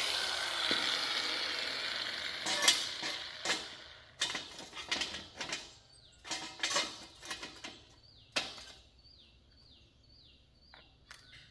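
Workshop clatter: a noisy tool sound fades away, then a series of sharp metallic clinks and knocks, followed by a string of about ten short, high chirps, each falling in pitch.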